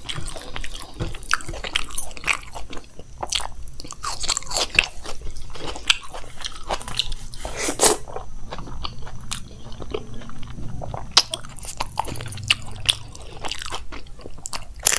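Close-miked eating sounds: chewing and wet mouth and lip smacks over a mouthful of chickpea curry and rice eaten by hand, with many short sharp clicks through the whole stretch.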